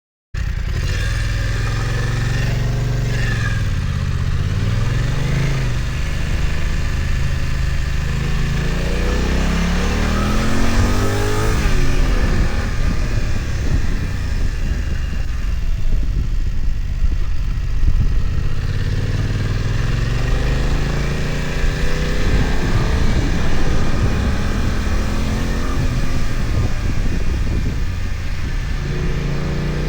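BMW F900XR's parallel-twin engine heard on board under way, the revs climbing and falling again and again as the rider accelerates and changes gear on a mountain climb.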